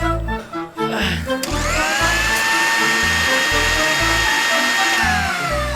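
Background music with a steady beat, over which a small electric motor whines: it starts with a click about a second and a half in, spins up, runs steadily for about three seconds and winds down near the end.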